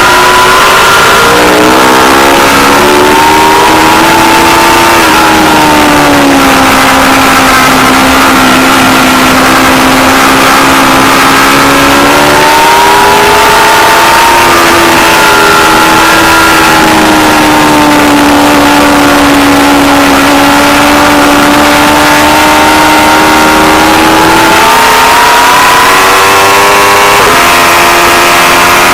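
Aprilia Tuono V4 Factory's V4 engine running hard on track. Its pitch falls over the first few seconds, holds steady, climbs again about twelve seconds in, then dips and rises near the end as throttle and speed change. The recording is loud and distorted, over a constant hiss of noise.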